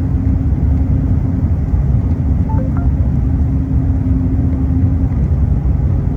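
Steady low rumble of an Airbus A380 airliner heard inside its cabin, with a steady hum over it.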